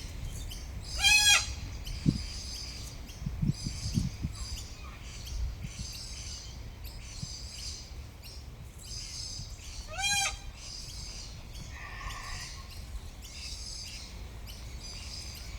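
Wild birds calling: a steady run of high, repeated chirps throughout, with two short, loud, harsh calls, one about a second in and one about ten seconds in.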